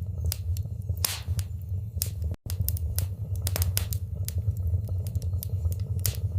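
Wood fire burning in a fireplace: frequent sharp crackles and pops over a steady low rumble. The sound cuts out for an instant about two and a half seconds in.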